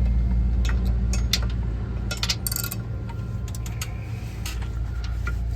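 Scattered metallic clinks and rattles of hand tools on metal during work on a car's engine bay, over a steady low hum, with a short hissing burst about halfway through.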